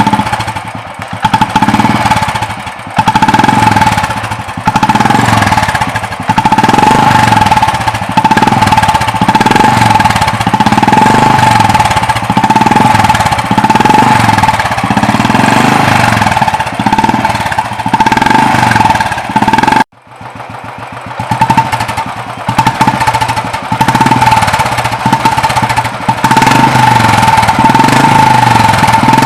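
Royal Enfield single-cylinder motorcycle engine running through an aftermarket Indore free-flow silencer, its thump rising and falling with the throttle about once a second, with a steady high tone over it. The sound breaks off briefly about twenty seconds in and resumes, most likely a second bike for comparison.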